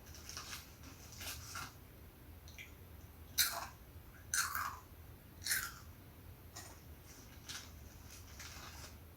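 A person biting and chewing a crunchy snack: scattered quiet crunches, with three louder bites about a second apart near the middle.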